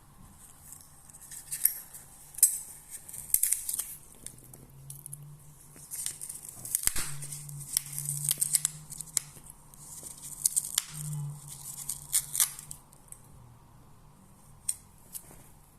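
A cat tearing and rustling at crinkly material: short bursts of crisp crackling and tearing that come in clusters, with pauses between them.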